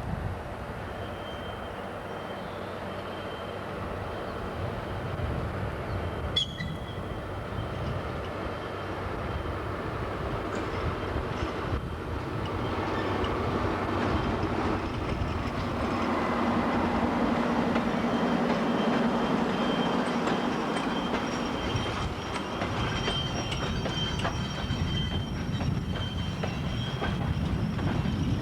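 DR1A diesel multiple unit on the move: engine drone and wheels running on the rails, growing steadily louder, with high thin wheel squeal in the second half. There is a sharp metallic clank about six seconds in.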